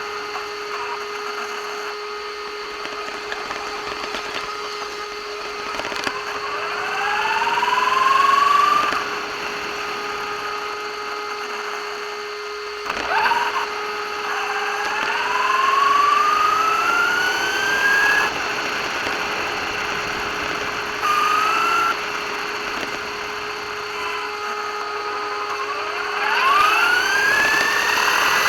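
RC car's electric motor whining, rising in pitch four times as it speeds up under throttle, over a steady hum and rough rolling noise.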